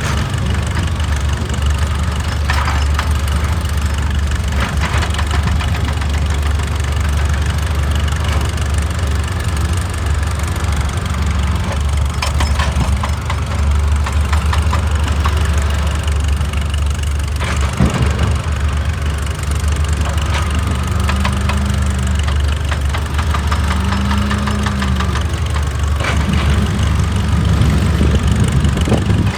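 Excavator's diesel engine running steadily under the work, with scattered knocks and clicks and a brief rise and fall in pitch twice in the second half.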